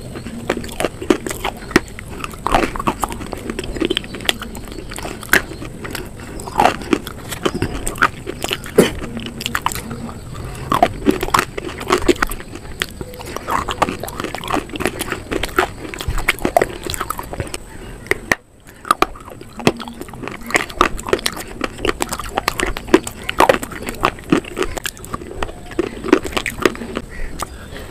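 Close-miked crunching and chewing of slate and baked-clay pieces dipped in cream paste: a dense run of sharp cracks and crackles, with a brief break about two-thirds of the way through.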